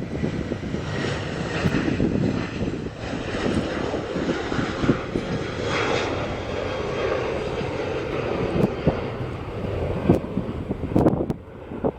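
Boeing 737 jet engines running at takeoff power, a loud steady rumble with a faint high whine, falling away sharply about eleven and a half seconds in. A few sharp knocks near the end.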